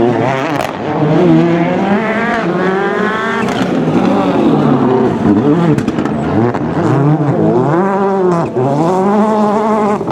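Rally car engine revving hard, its pitch repeatedly climbing and falling with gear changes and lifts off the throttle, with a few sharp cracks.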